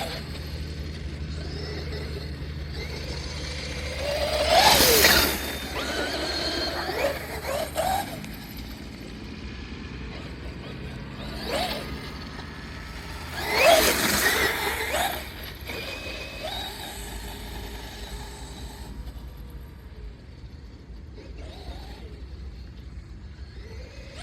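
Large radio-controlled car driving through grass, its motor winding up in two loud bursts of acceleration, about four and thirteen seconds in, with rising and falling whine and quieter running in between.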